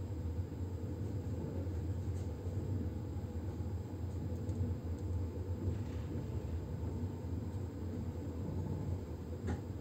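Steady low rumble of a passenger train carriage running along the track, heard from inside the coach, with a single brief click near the end.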